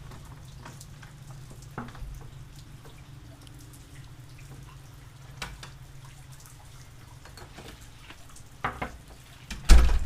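Raindrops ticking irregularly on a car heard from inside the cabin, over the steady low hum of the car, with a couple of louder knocks near the end.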